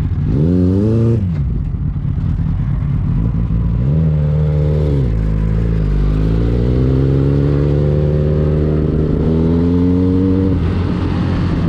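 Motorcycle engine revving and accelerating: a short blip about half a second in, another around four seconds in, then a steady climb in pitch lasting about four seconds that drops off sharply shortly before the end.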